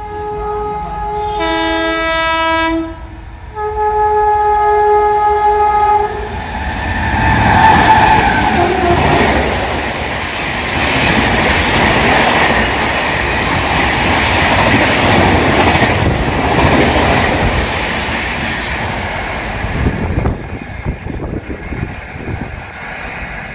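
An electric locomotive's multi-tone air horn sounds three blasts in the first six seconds, the middle blast a different, lower chord. Then a high-speed passenger train rushes past with the loud clatter of wheels and coaches, dying away near the end.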